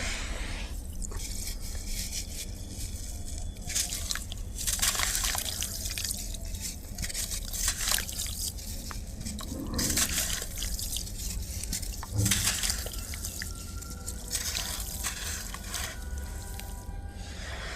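Clumps of dry, dusty black sand crumbling and dropping into water: dripping and small splashes, with crunchy crumbling that comes in irregular spurts, the strongest around the middle.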